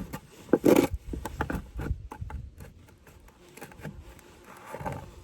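Wooden beehive parts being handled and scraped: a run of sharp clicks and knocks, busiest in the first two seconds, then sparser.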